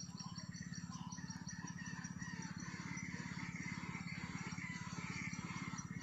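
Small birds chirping, with a quick run of short high chirps in the first second, over a steady low pulsing hum.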